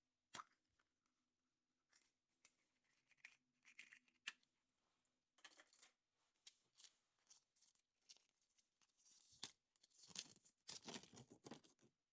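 Quiet handling of surprise-egg packaging: scattered small clicks and short crinkles, then for the last two or three seconds a denser run of crinkling and tearing of a wrapper.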